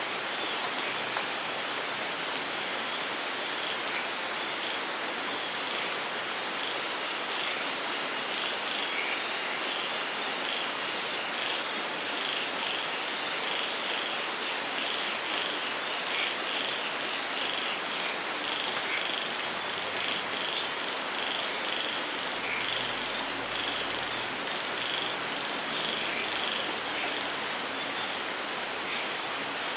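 Steady rain with a dense chorus of high, rapid animal calls above it.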